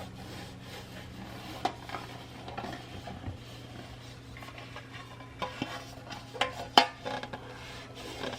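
Kitchenware being handled: light clinks and knocks of dishes and utensils, with sharper clicks about a second and a half in and again near the end.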